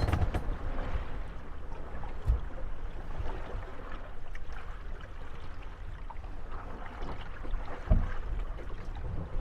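Moored gondolas rocking on lapping water, their hulls bumping and creaking against each other, with a dull knock about two seconds in and a louder one near the end.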